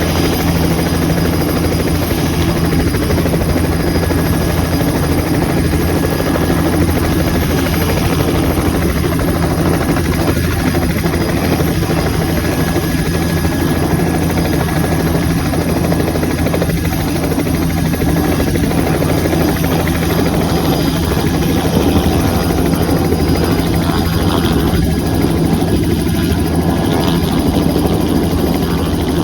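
An engine running steadily, a constant loud drone with a low hum that does not change.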